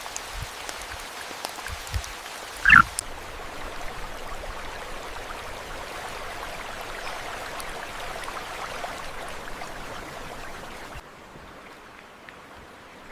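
Steady rain hiss with a single short, loud croak-like animal call about three seconds in. About two seconds before the end the rain sound drops to a quieter, duller level.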